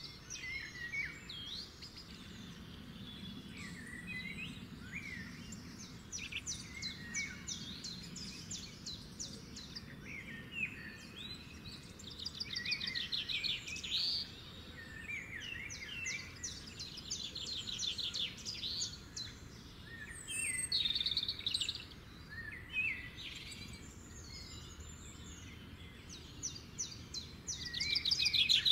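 Songbirds singing outdoors: fast trills of rapidly repeated notes and short chirps overlap throughout, loudest near the end, over a faint steady low background hum.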